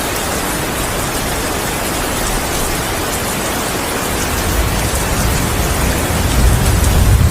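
Heavy rain falling as a steady hiss. About four seconds in, a low rumble of thunder builds and grows louder near the end.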